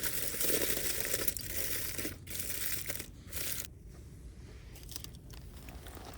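Wrapping material crinkling and crumpling as something is wrapped by hand. The dense rustling lasts about three and a half seconds, then gives way to quieter, scattered handling noises.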